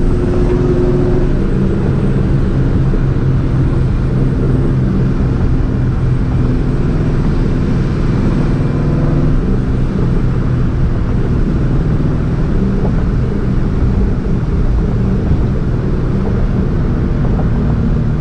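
Supercharged 2004 Ford Mustang GT's 4.6-litre two-valve V8, breathing through long-tube headers, a catless X-pipe and a Borla ATAK cat-back exhaust, running at a fairly steady cruise; the note shifts slightly about halfway through.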